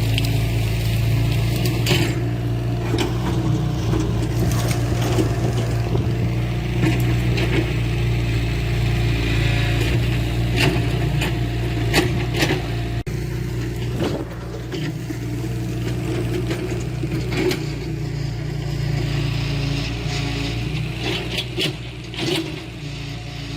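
Diesel engine of heavy earthmoving machinery running steadily, with repeated scraping and knocking of soil, stone or debris over it.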